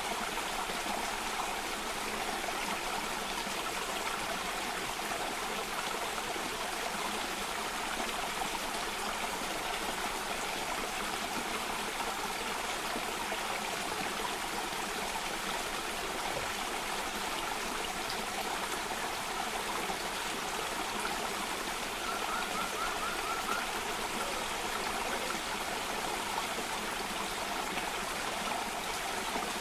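Water of a stream or small waterfall rushing and trickling steadily, with a short, faint high trill about three quarters of the way through.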